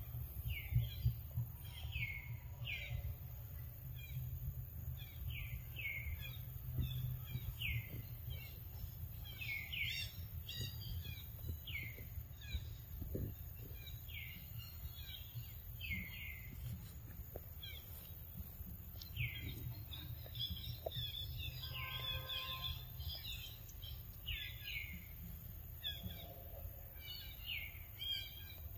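Forest bird calls: short falling whistled notes, often in pairs, repeating every second or two, with a busier spell of chirping a little past the middle, over a steady low rumble.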